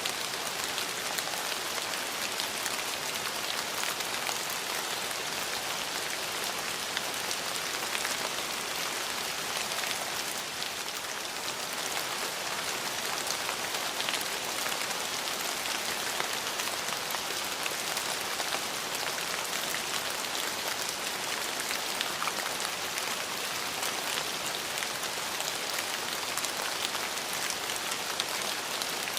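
Steady rain falling, an even hiss with many fine, close-spaced drop patters and no let-up.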